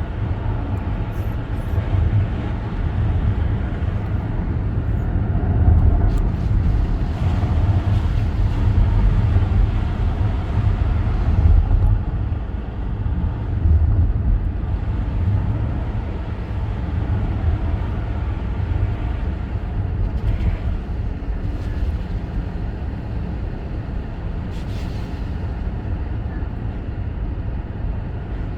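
A car being driven: a steady low rumble of road and engine noise.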